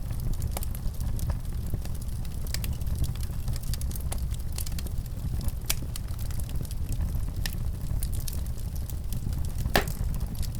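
Wood fire in a fireplace crackling, with a steady low rumble of flames and frequent small pops. One louder pop comes near the end.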